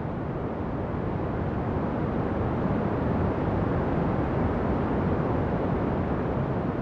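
Ocean waves: a steady rush of surf that swells a little partway through.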